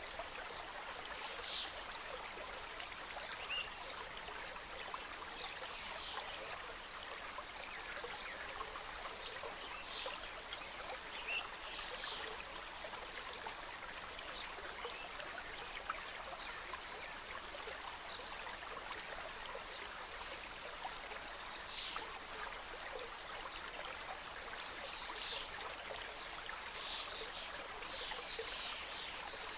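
Mountain stream cascading over rocks through forest: a steady, even rush of flowing water.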